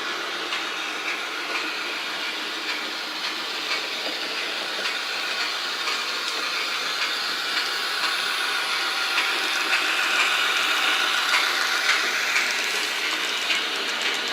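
Bemo MK45 model locomotive running, its sound decoder playing a steady locomotive running sound through a small speaker, with light scattered clicks; it grows a little louder about halfway through.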